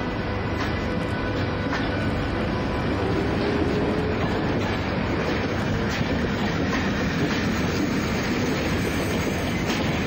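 O gauge model train running along the track: a steady rumble with light, irregular clicks from the wheels passing over the rail joints.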